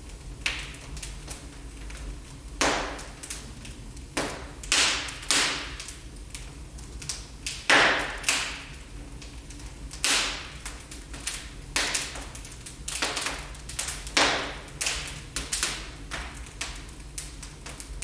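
Wood fire burning in a fireplace, crackling with irregular sharp pops and snaps, a few each second, the loudest snap about eight seconds in.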